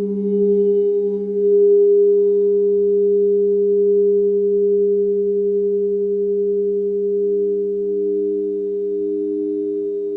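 Layered, sustained humming tones of sound-healing music, held steady with a slow wavering pulse. A new, slightly higher tone comes in about seven seconds in.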